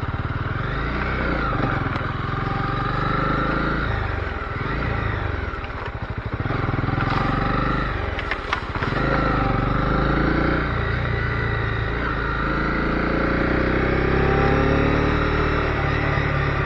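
Honda CB250R's single-cylinder engine running at low road speed, its revs rising and falling with the throttle. A few sharp ticks come a little past halfway.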